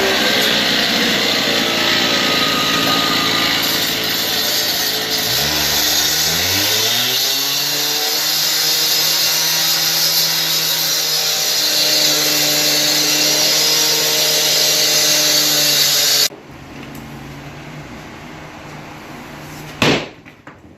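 Power saw cutting into a concrete floor: a loud, steady grinding hiss over the motor's hum, which rises in pitch about six seconds in and then holds. The cutting stops abruptly about sixteen seconds in, leaving the saw running more quietly, and a sharp knock follows near the end.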